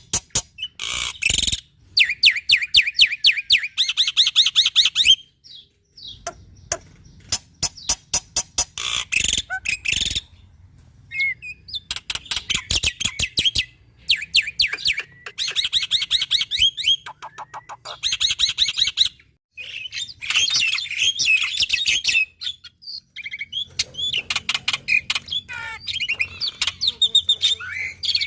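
A black-winged starling (jalak putih) singing continuously, in a vigorous song used to set other starlings singing. Its phrases of fast rattling clicks alternate with quick trilled notes, with short pauses between phrases.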